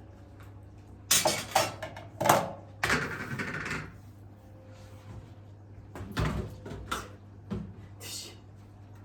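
Kitchen items being handled while the coffee and tea machine is cleaned: a series of knocks and clatters, with a short rushing noise about three seconds in.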